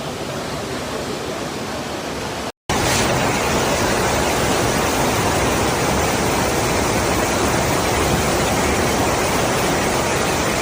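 Steady rush of water. It cuts out for an instant about two and a half seconds in and comes back louder.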